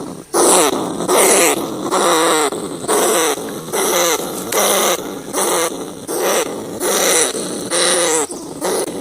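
Field rats squealing: short, wavering, growl-like cries repeated about once a second.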